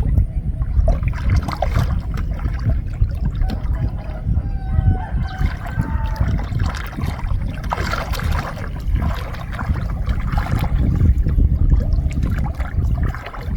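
Water trickling and splashing as a gill net is hauled out of a flooded rice field and the fish are picked from it, over a steady low rumble. A few short pitched calls, like a bird's, come in about four to five seconds in.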